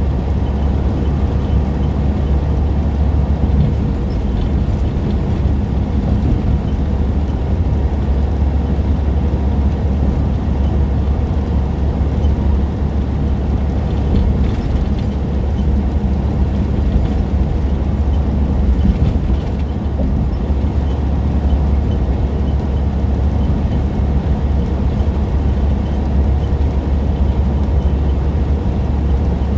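Semi truck driving at a steady speed: a constant low drone of the diesel engine and road noise, with no change in pitch.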